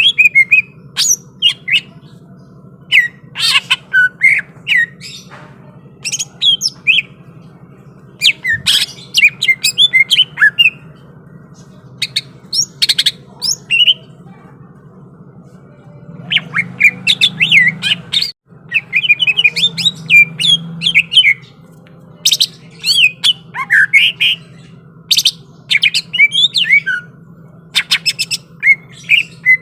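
Cucak ijo (greater green leafbird) singing loud bouts of quick, sharp, varied whistled and chattering notes, separated by short pauses.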